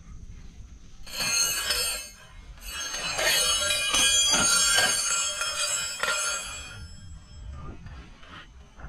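Bell-like metallic jingling and tinkling, many small ringing tones struck irregularly, louder from about a second in and fading near the end.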